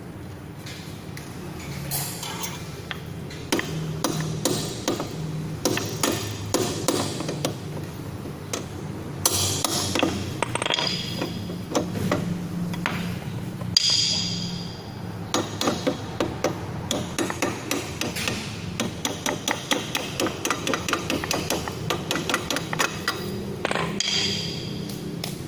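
Repeated hammer-like knocks and taps, irregular at first and settling into a fast run of about four a second near the end, over a steady low hum.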